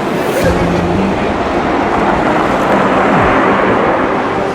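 Street traffic noise with a vehicle engine passing by, swelling and loudest about three seconds in, its pitch falling as it goes.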